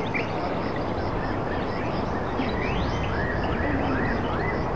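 Birds chirping over a steady rushing noise: a few rising whistles, then a run of four or five short arched notes in the second half.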